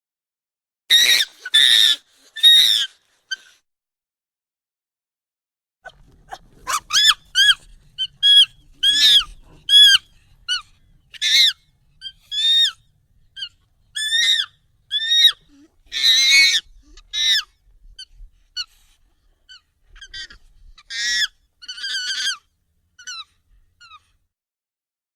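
Monkey calls sped up and pitched up: three sharp high calls, a pause of a couple of seconds, then a long run of short, rapid calls.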